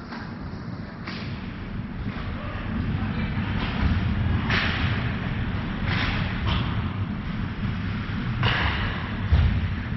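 Ice hockey play on a rink: skate blades scraping the ice in several short hissing swishes, with dull thuds and a sharp knock near the end from sticks, puck and boards, over a steady low rink rumble.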